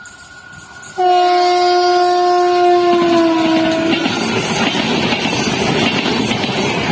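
An Indian Railways locomotive horn sounds one long blast of about three seconds, its pitch dropping slightly near the end as the train passes. The train then rushes by, with loud wheel clatter on the rails.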